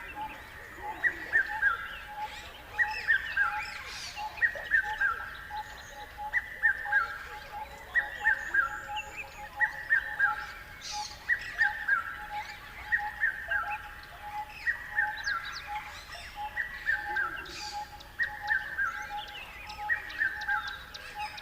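Birds singing: one bird repeats a short, falling, chirped phrase about once a second, over a steady pulsing call and scattered higher chirps from other birds.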